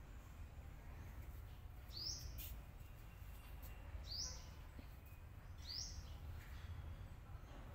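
Small bird chirping: three short rising chirps about two seconds apart, over a faint steady low rumble.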